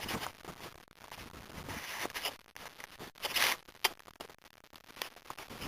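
Irregular rustling and a few sharp clicks of handling noise on the camera's microphone, with brief moments where the sound drops out entirely.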